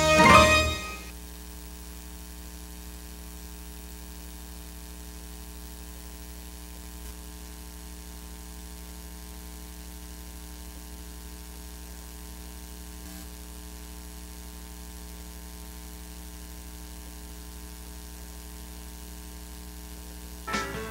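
Steady mains hum with a ladder of even overtones, on the audio of a VHS tape transfer, after the end of a song fades out about a second in. Music comes back in just before the end.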